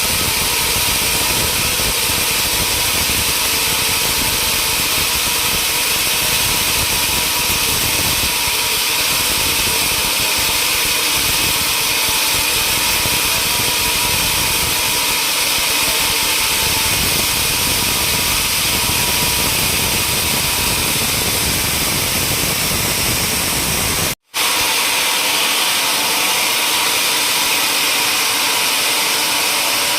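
Sawmill machinery running steadily with a constant mechanical whine and hiss. The sound cuts out for an instant about three-quarters of the way through.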